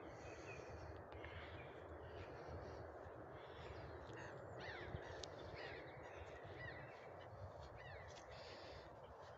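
Faint bird calls, crows cawing now and then with a few quick chirps from smaller birds, over a steady low outdoor background noise.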